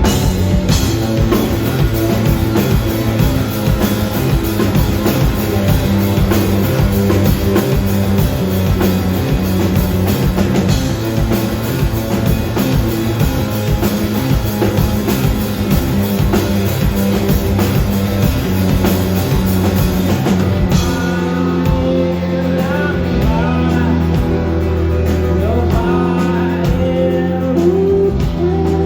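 Rock band playing live: drum kit, electric guitar and bass at full volume. About two-thirds of the way in the drumming thins out and a gliding singing voice comes forward.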